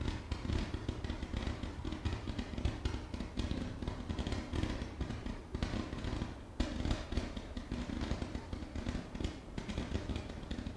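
Fireworks firing in a rapid, continuous string of small pops and crackles as stars are shot up one after another, over a steady low rumble.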